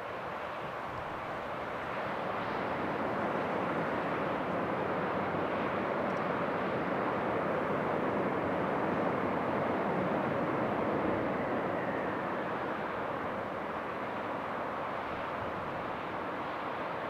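Jet airliner engines passing, a broad rushing noise that swells over a few seconds, is loudest about ten seconds in, then eases slightly.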